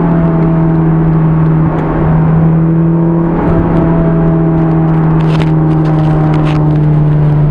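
Honda S2000's inline-four engine through a Milltek dual exhaust, heard inside the cabin with the top up while cruising at highway speed. It gives a steady hum over road noise, dipping slightly in pitch near the start and then holding steady, with no drone.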